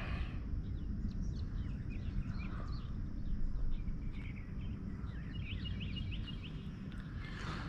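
Small birds chirping and calling over a steady low rumble, with short high chirps scattered throughout and a quick run of chirps about five and a half seconds in.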